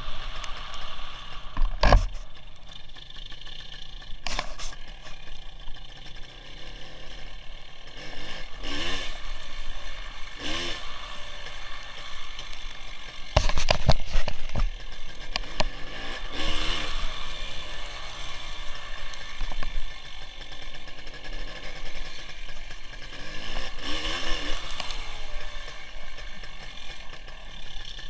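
WSK 175 motorcycle's single-cylinder two-stroke engine running on the move, its pitch rising and falling several times as it revs, with loud knocks about two seconds in and again around fourteen seconds.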